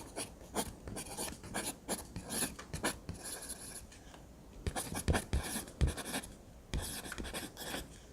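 A drawing tool scratching across paper in quick, repeated strokes, with a short lull about halfway through.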